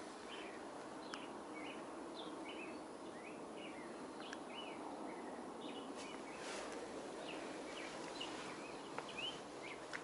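Small birds chirping: many short, high chirps, a few each second, over a steady hiss.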